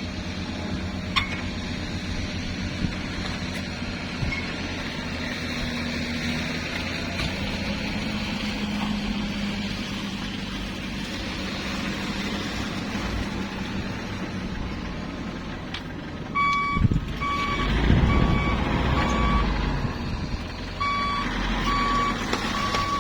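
A vehicle engine running steadily. About three-quarters of the way through, a reversing alarm starts beeping at about two beeps a second, pauses briefly, then resumes, while the engine rumble grows louder as the vehicle backs up.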